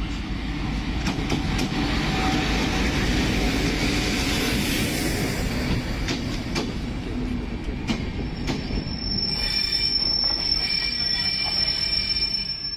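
A Bangladesh Railway class 6500 (WDM-3A) diesel-electric locomotive and its intercity coaches roll slowly past along a station platform: a steady low rumble, with wheels clicking sharply every so often over rail joints. From about nine seconds in, a high steady wheel squeal sets in and holds.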